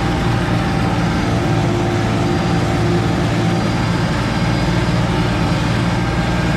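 Kubota L3540 diesel tractor running steadily with a five-foot rotary brush hog spinning behind it, cutting weeds. A loud, even drone with no change in engine speed.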